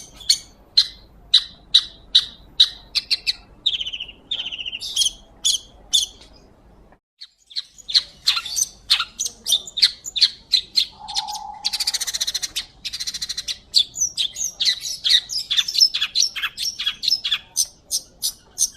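Long-tailed shrike singing a rapid run of harsh, scratchy high notes, several a second. The song breaks off completely for about a second, seven seconds in, and has a buzzing rasp around twelve seconds.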